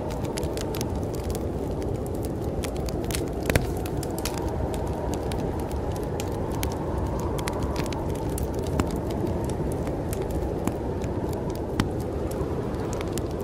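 Wood fire crackling in a fireplace, with frequent sharp pops and snaps, over a steady low rush of snowstorm wind.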